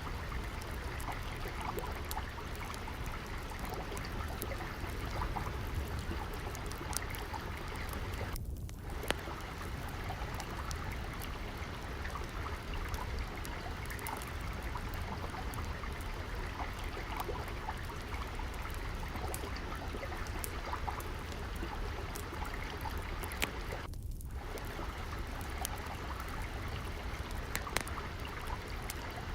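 Steadily trickling, flowing water, with scattered small crackles and pops of a wood fire burning in a fireplace.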